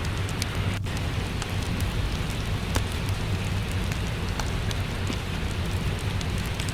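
Steady rain with a low rumble underneath, and scattered small crackles and pops from a wood fire.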